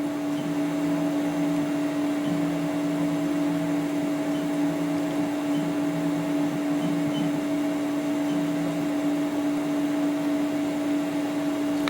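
A CNC router's stepper motors hum and whine steadily as the Z-axis is driven on its first test move. A lower tone cuts in and out until about nine seconds in.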